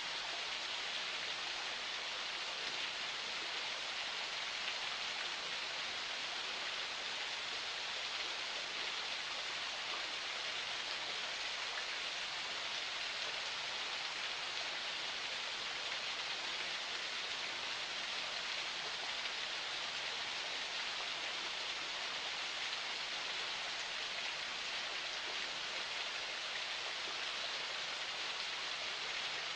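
Water of a small forest spring flowing, a steady even rush that does not change.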